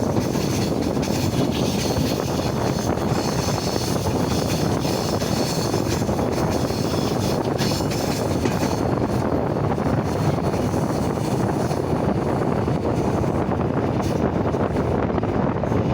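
Train running on the rails: a loud, steady rumble, with a higher hiss over it that fades out about halfway through.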